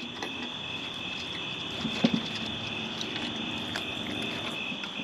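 Crickets chirping steadily, with a few faint clicks and a brief louder sound about two seconds in.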